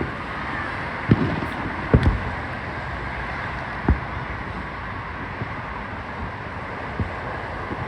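Distant fireworks booming: short low thumps about a second in, a close pair near two seconds (the loudest), another near four seconds and one near seven, over steady wind noise on the microphone.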